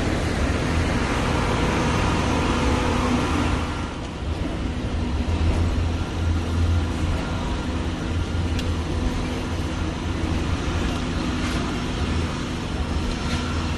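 Studio tour tram rolling along, heard from on board: a steady low rumble of the ride with a few faint steady hum tones over a noisy haze.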